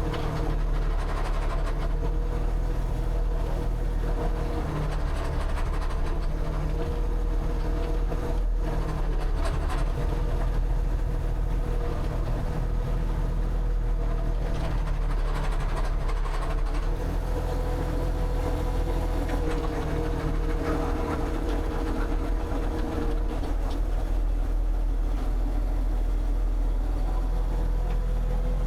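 An engine running steadily, with a low hum and a tone that wavers slightly in pitch.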